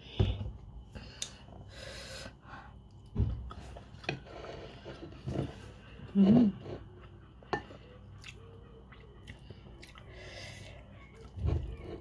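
Close-up eating sounds: a person chewing a mouthful of rendang and rice, with scattered small mouth clicks and smacks and the soft sounds of fingers picking food from the plate. A brief, louder hum-like sound comes about six seconds in.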